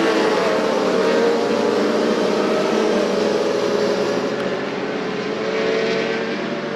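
Racing motorcycle engines running, their engine notes fairly level and overlapping, easing slightly in loudness in the second half.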